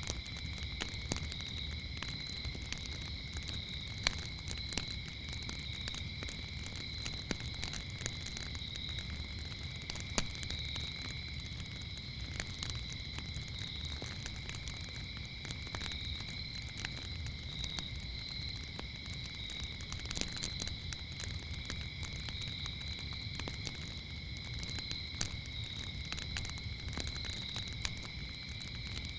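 Campfire crackling with irregular sharp pops, a few louder than the rest, over a steady chorus of crickets chirping in two continuous high tones, with a low steady rumble underneath.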